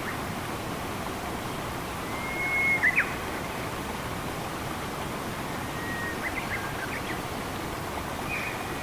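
Steady rush of flowing water, with a bird calling over it: a held whistle about two seconds in that ends in two quick sharp notes, then a few short chirps later on.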